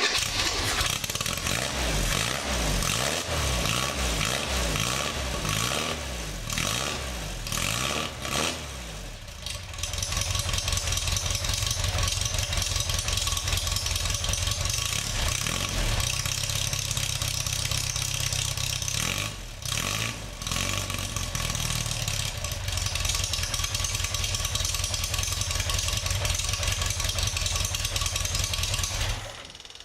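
Formula Ford's carburetted Ford Kent four-cylinder engine running on its first cold start, freshly fed by a new electric fuel pump. For about the first nine seconds the revs rise and fall unevenly under throttle blips. It then settles to a steady fast idle, dips briefly about two-thirds of the way in, and cuts off abruptly near the end.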